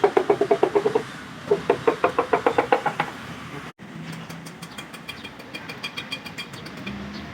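Two bursts of rapid, evenly spaced mechanical clicking, about ten clicks a second, each click with a short ringing note. After a sudden break, a fainter, sharper fast ticking follows.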